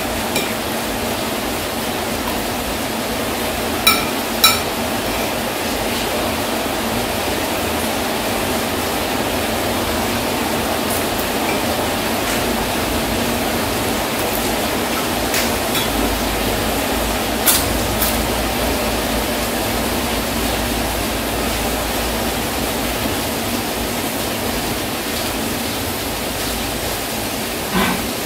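Steady hiss of heavy rain. A spoon clinks against a plate in two quick pairs, one about four seconds in and one past the middle.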